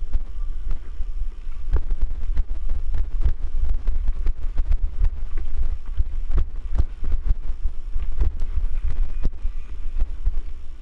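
Wind buffeting the microphone of a camera riding on a mountain bike, with frequent short knocks and rattles as the bike goes over rough ground.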